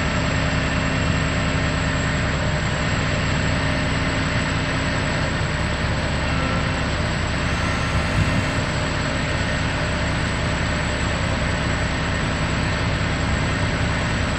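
Diesel engine of a 2008 Freightliner M2 bucket truck idling steadily, with a short hiss about eight seconds in.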